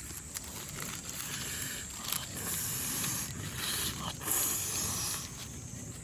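Food sizzling and hissing on a grill over a campfire, with louder bursts of hissing through the middle.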